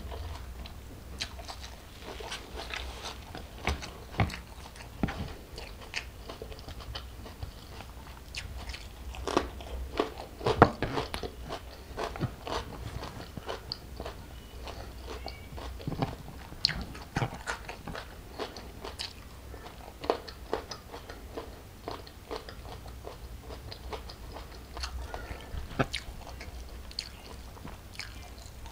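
Close-miked chewing and biting of food, with irregular crunchy crackles and wet mouth sounds. The loudest cluster of crunches comes about ten seconds in.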